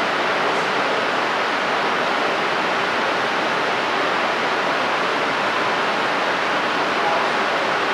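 Shinkansen train running at the station, a loud, steady, even rush of noise with no clear tone.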